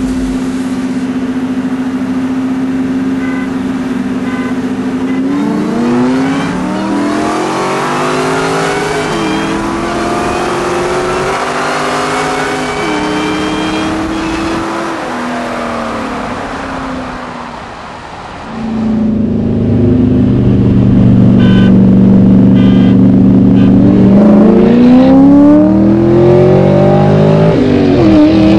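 V8 sports car engines racing. A steady cruising note gives way, about five seconds in, to hard acceleration: the revs climb in rising sweeps broken by gear shifts, then fall away as the throttle is lifted around sixteen seconds. Just before twenty seconds a louder steady engine note comes in and starts climbing again near the end.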